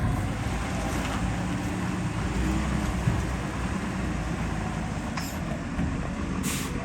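Motor vehicle engine running with a steady low rumble, and a short hiss near the end.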